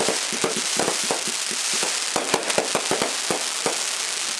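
Fireworks going off: a rapid, irregular string of sharp pops and bangs over a steady crackling hiss.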